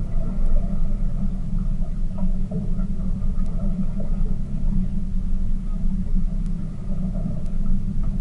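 Tour boat's engine running steadily: an even, low drone with no change in speed.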